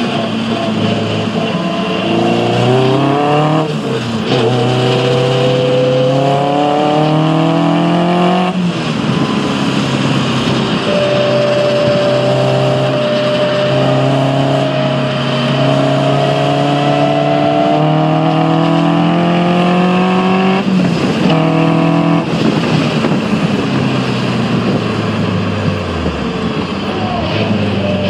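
Caterham R300's four-cylinder engine heard from the open cockpit at full throttle, its pitch climbing through each gear with a break at every upshift. Near the end the pitch drops as the car slows, then climbs again.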